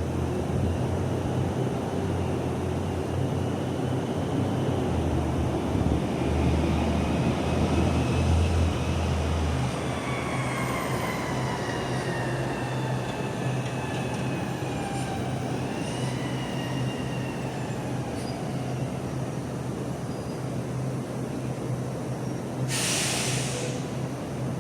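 Garbage truck's diesel engine rumbling with a deep hum that drops away about ten seconds in. A high squeal slides slowly down in pitch through the middle, and a short hiss comes near the end.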